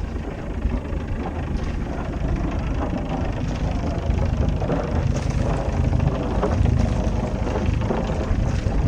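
Wind buffeting the microphone on a sailboat under way, with water rushing along the hull: a steady rushing noise heaviest in the bass, a little louder in the second half.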